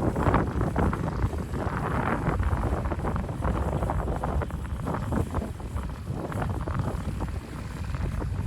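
Wind buffeting the microphone, a gusty rumble that rises and falls unevenly throughout.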